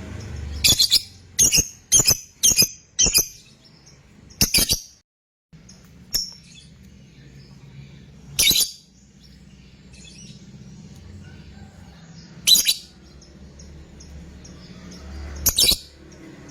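Lovebird giving short, shrill calls: a quick run of about six in the first three seconds, then single or paired calls a few seconds apart, over a steady low hum. This is a fighter lovebird's call, of the kind played to other lovebirds to set them chattering.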